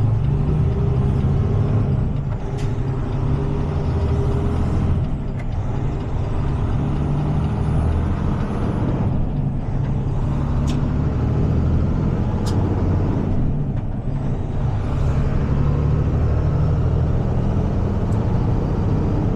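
Heavy tow truck's diesel engine running steadily as it drives with a truck in tow, with a few short air-brake hisses and clicks along the way.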